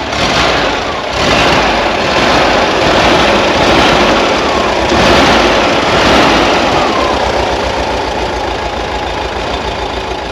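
1976 VW Beetle's air-cooled flat-four engine running just after a cold start. It runs a little faster through the first half, then settles down toward idle over the last few seconds.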